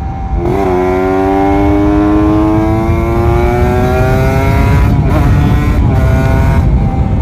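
Kawasaki Ninja RR 150's two-stroke single-cylinder engine accelerating under load, its pitch rising steadily for about four seconds, then a short break as it shifts gear and a steadier pitch after. Wind rushes over the helmet microphone throughout.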